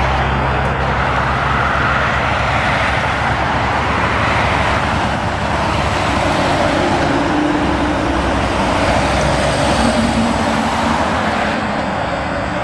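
Road traffic with trucks passing: steady, loud engine and tyre noise, with a deeper engine hum near the start and another engine's tone in the middle.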